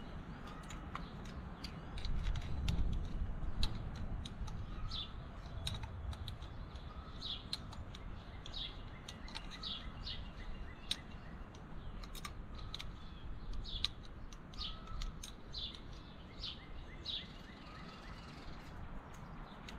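Songbirds chirping: short high chirps repeated about once a second. There are small sharp clicks from a small part and screwdriver being handled, and a low rumble about two seconds in.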